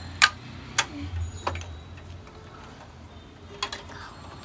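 Several sharp clicks and taps as a toy fire truck and its hose are handled, the loudest about a quarter of a second in and a pair near the end.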